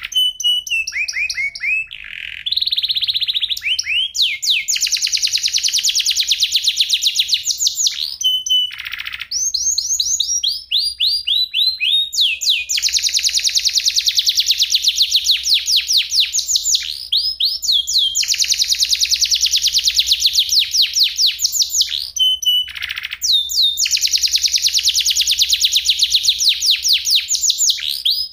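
Domestic canary singing: long rolling trills of rapid, evenly repeated downward-sweeping notes, in phrases of several seconds with short breaks and changes of note type between them.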